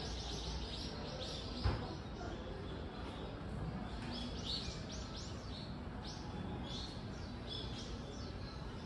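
Small birds chirping: a quick run of short, high, falling notes that goes on with gaps over a low background hum. A single sharp knock a little under two seconds in.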